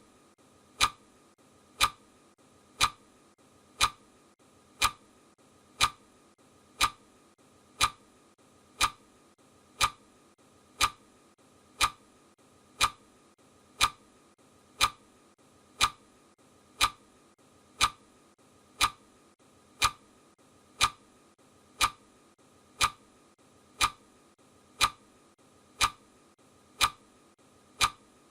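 A steady ticking, one sharp tick each second, evenly spaced, over a faint hiss.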